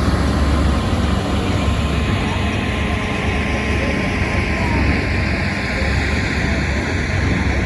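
Large horizontal wood grinder running and grinding wood: a loud, steady, dense rumble with a hiss over it, without letup.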